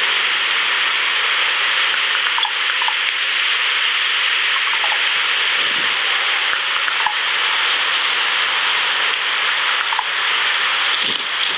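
Steady, loud hiss of an outdoor field recording, with a few faint scattered ticks and a low hum underneath.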